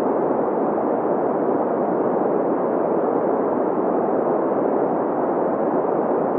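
Green noise: steady synthetic hiss with its energy in the middle of the range, centred around 500 Hz, and little deep rumble or high fizz.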